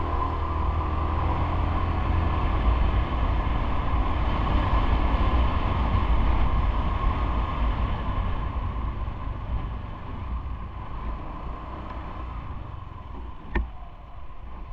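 Steady rumble of riding along a city road, with wind buffeting the microphone and traffic around it. It swells for the first several seconds, then eases off, with a single sharp click near the end.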